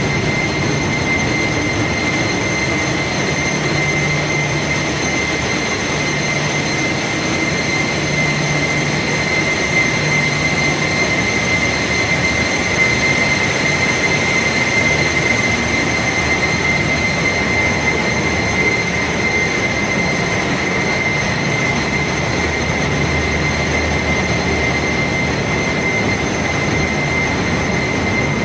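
Engine room machinery running: a loud, unbroken din with a constant high-pitched whine over a low hum.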